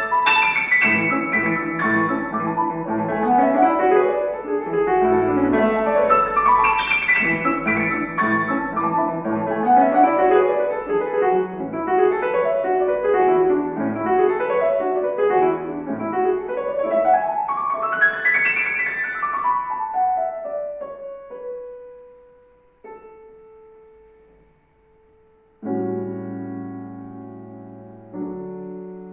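Solo piano playing classical music: fast runs of notes sweeping up and down the keyboard. About two-thirds of the way through, the runs come to rest on a single held note that dies away. Two sustained chords follow near the end.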